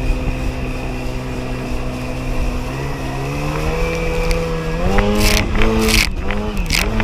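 1994 Sea-Doo XP's two-stroke engine running at a steady cruise, then throttling up in two steps so its pitch rises, and wavering with dips near the end. Sharp bursts of water spray come from about five seconds in.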